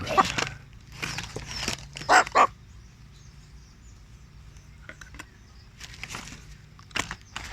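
A dog barking several times in short calls, loudest in a pair about two seconds in, then falling quiet apart from a few faint sounds near the end.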